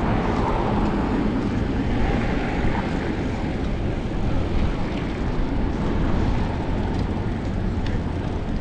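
Steady rumble of wind buffeting a chest-mounted action camera's microphone while cycling, with faint clicks here and there.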